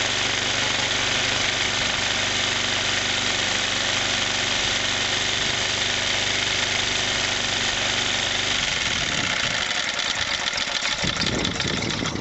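1963 Briggs & Stratton single-cylinder engine running steadily. After about eight and a half seconds the running turns uneven and pulsing.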